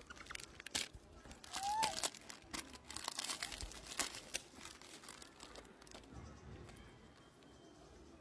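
An animal eating cake: a run of crinkling, crunching clicks, with one short squeak about two seconds in. The clicks thin out after about six seconds.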